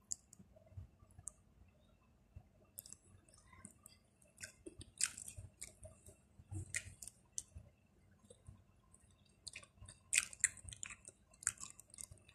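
A person chewing a chicken nugget close to the microphone: soft, wet mouth clicks and smacks at an irregular pace, busier about five seconds in and again around ten seconds.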